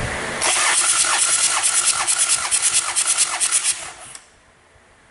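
Hyundai D4BH four-cylinder diesel being cranked over by its starter motor for a compression test: a starter whine with an even pulsing of about four beats a second as each cylinder comes up on compression, stopping abruptly a little after four seconds.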